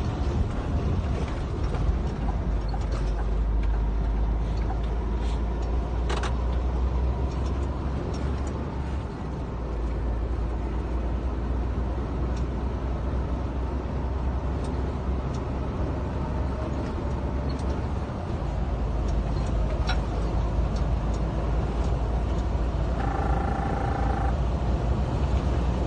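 Scania R410 truck's 13-litre inline-six diesel running on the road, a steady deep drone with road noise that shifts in level twice. A brief pitched tone lasting about a second sounds near the end.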